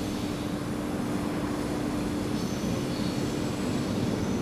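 A long container freight train rolling along the tracks: a steady rumble with a constant low hum that grows slowly louder. Faint high squeals from the wheels come in about halfway through.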